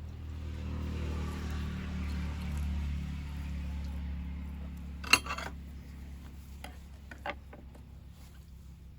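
Cookware being handled: one sharp metallic clink about five seconds in, then a couple of lighter clicks, over a steady low hum and a soft hiss that fades halfway through.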